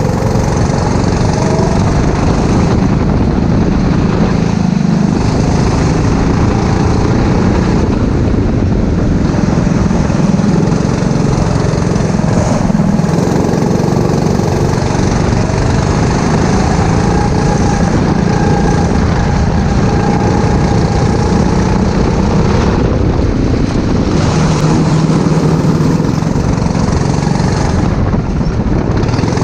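Four-stroke go-kart engine running under racing load, its pitch rising and falling as it accelerates and lifts through the corners, over steady noise.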